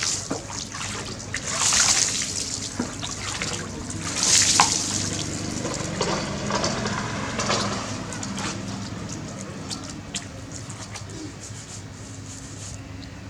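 Bath water splashing and dripping as a baby monkey is washed, with louder bursts of pouring or splashing about two and four and a half seconds in.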